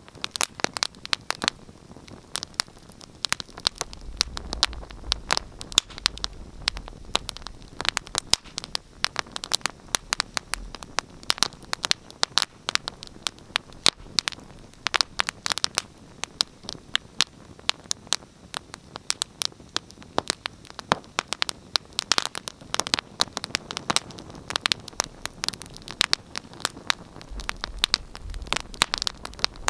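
Wood fire crackling: dense, irregular pops and snaps from burning logs over a soft steady hiss, with a low rumble of flame at times.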